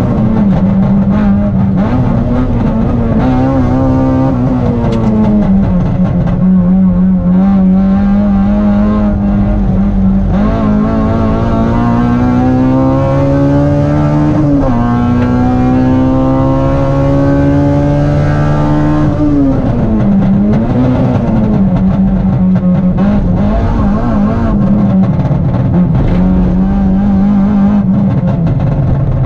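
Honda Integra SiR's four-cylinder engine heard from inside the cabin under hard track driving. The engine note rises and falls through the corners, with two long climbs in revs in the middle, each ending in a sudden drop.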